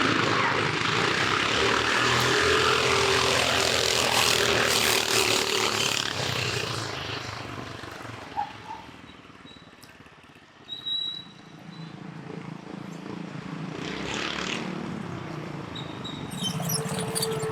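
Two go-karts powered by 420cc Predator single-cylinder engines launching at full throttle in a drag race. The engine sound is loud for the first several seconds, fades away as the karts pull off, and then builds again toward the end.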